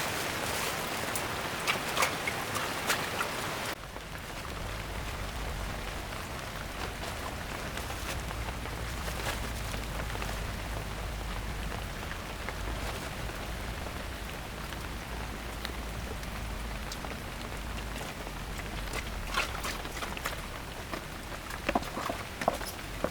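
Rain falling: a steady hiss with scattered ticks of drops. About four seconds in the sound changes abruptly to softer rain over a steady low rumble.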